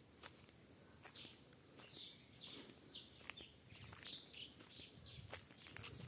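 Faint bird calls, a run of short down-slurred chirps in the middle of the stretch, over soft scattered footsteps on a dirt path strewn with dry leaves.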